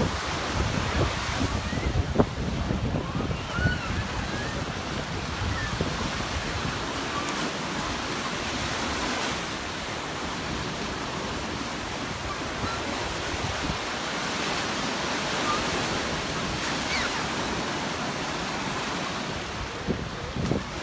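Beach surf washing in steadily, with wind buffeting the microphone in gusts, most in the first few seconds and again near the end.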